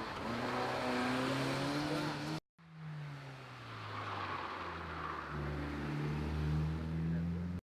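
Peugeot hatchback engines accelerating hard up a hill climb, the engine note climbing in pitch. A sudden cut about two and a half seconds in leads to another car, whose note drops at a gear change and then climbs again.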